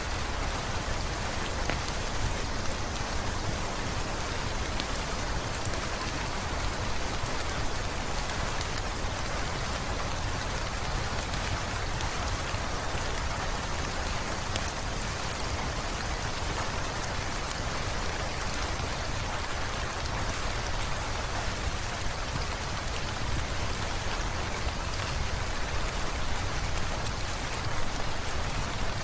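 Steady rain falling on hard surfaces, an even hiss with short, sharp drop ticks scattered through it.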